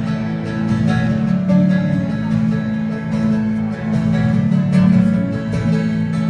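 Live indie-americana band playing an instrumental break between verses, led by guitars, with steady strumming.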